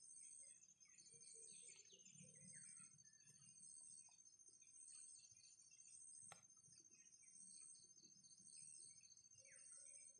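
Faint steady insect trill with scattered short, falling bird chirps, and a single click about six seconds in.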